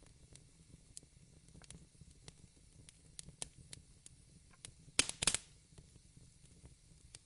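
Fire crackling, with scattered irregular snaps and a louder burst of pops about five seconds in.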